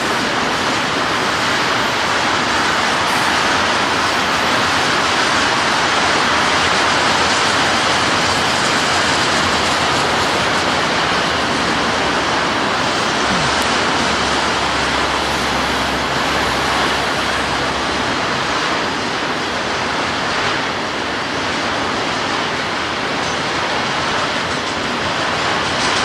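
Auto rack freight train rolling past: a steady rush of wheel and rail noise from the passing cars, with a slight deeper rumble about halfway through.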